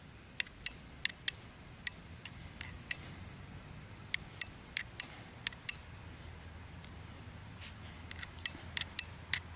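Carbon-steel striker knife scraped against a chert rock in flint-and-steel fire lighting: quick, sharp metallic strikes in three runs with short pauses between. The chert's edges are dull and rounded, so the strikes are not yet catching a spark in the charred punk wood.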